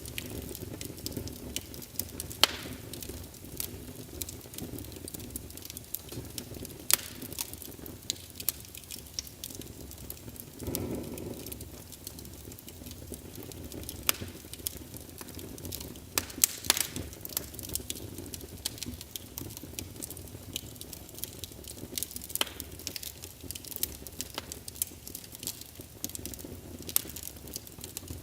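Wood fire burning in a fireplace: a steady low hiss of flames with irregular sharp crackles and pops from the logs. There is a brief louder rush of flame about eleven seconds in.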